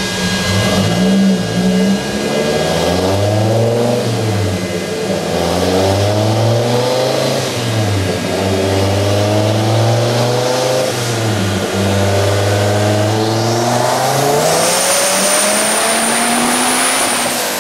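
Twin-turbo Dodge Viper V10 revving hard on a chassis dyno. The pitch climbs and drops back several times as it shifts through the gears, then climbs in one long pull, with a high turbo whine coming in near the end.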